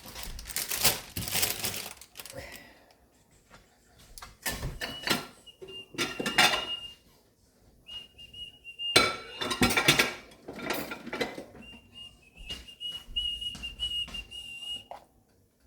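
Dishes and utensils clinking and knocking as fruit is put into a bowl. A thin, high whistle held at one pitch comes and goes: about six seconds in, again around eight seconds, and through the last few seconds.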